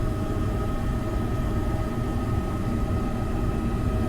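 A high-efficiency gas furnace's draft inducer motor running on its own, a steady hum with a steady high whine over it. Its current draw reads normal.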